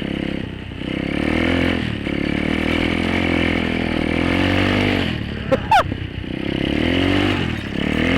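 Apollo 125cc dirt bike's single-cylinder four-stroke engine revving up and dropping back again and again while riding. Just before six seconds in there is a brief sharp high squeak with a couple of clicks.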